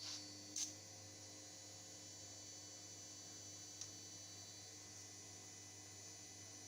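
Near silence: a faint steady hum, with two light clicks at the start and another about four seconds in.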